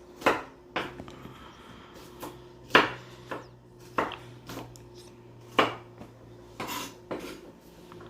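A kitchen knife knocking on a cutting board in irregular strokes as ginger is cut up, about ten knocks, the loudest a little under three seconds in.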